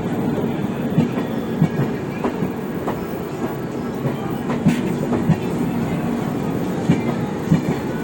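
Passenger train running along the track: a steady rumble broken by sharp clacks as the wheels pass over rail joints, about one every second.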